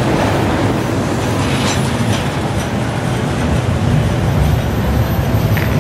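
An EKr1 'Tarpan' electric multiple-unit train running past along a station platform: a steady, loud noise of wheels on rails and running gear, with a few faint clicks.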